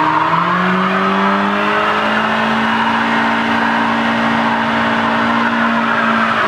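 Classic car engine held at high revs through a burnout, its drive tyres spinning and squealing against the road. The engine note rises sharply into the burnout, holds steady, then drops away right at the end.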